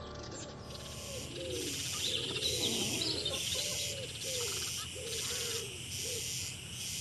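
Common hoopoe calling: a string of low, soft notes repeated about every half second. Higher bird chirps come in a couple of seconds in, over a high hiss that pulses on and off.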